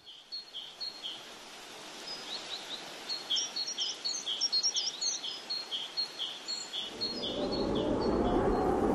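A small bird calling in a steady string of short chirps, roughly two a second, with quicker high twittering notes mixed in about halfway through. About seven seconds in, a steady rushing noise like wind swells up under the chirps and grows louder.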